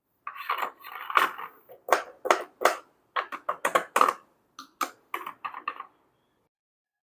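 Hard plastic toy pieces being handled, a quick run of clicks and knocks with some rustling in the first second or so, stopping about a second before the end.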